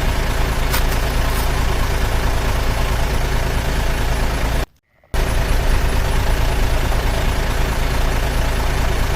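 Steady rumble of a heavy truck engine running, with a sudden half-second dropout to silence about halfway through.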